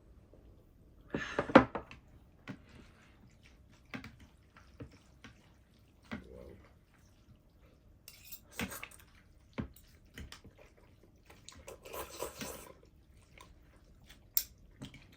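Noodle soup being eaten: three noisy slurps, the first about a second in and the loudest, with short clicks of utensils against bowls between them.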